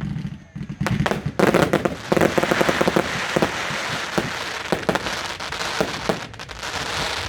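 Display fireworks going off: a few sharp bangs, then from about a second and a half in a long, dense spell of crackling with scattered louder reports.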